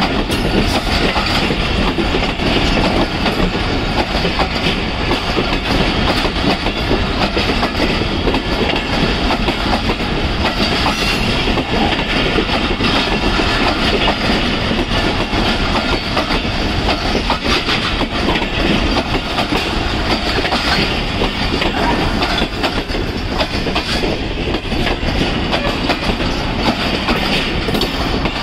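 Passenger train's coaches rolling past at speed, a steady loud rush of wheels on rail with clacking over the rail joints.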